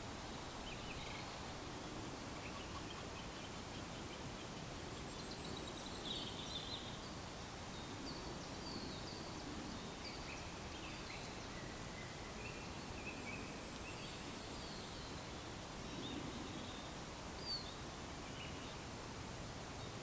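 Songbirds giving scattered short chirps and twittering calls over a steady outdoor background hiss.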